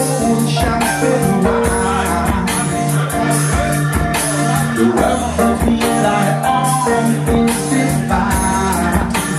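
Live band music: a bass line and held chords over a steady percussion beat.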